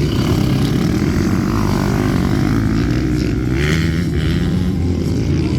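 Motocross bike engines running with a steady, loud drone.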